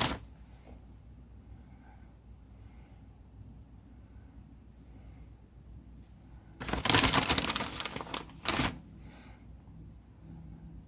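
Crinkling and crackling of scenery material being handled by hand, in one loud burst of about two seconds roughly two-thirds of the way in. Faint, soft breaths recur every couple of seconds.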